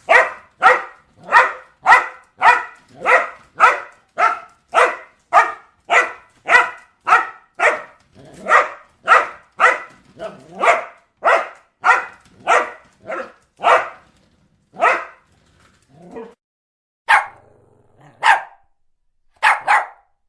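A dog barking in a steady run of about two barks a second, then slowing to a few scattered barks, with a quick double bark near the end.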